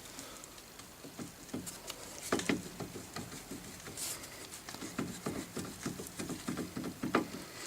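Hands handling brake parts: irregular light clicks, knocks and rustles, with a cluster of knocks in the last couple of seconds.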